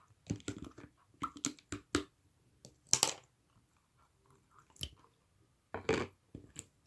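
Yellow slime being squished and pressed by hand, giving irregular wet pops and crackly clicks, the loudest about three seconds in and again near six seconds.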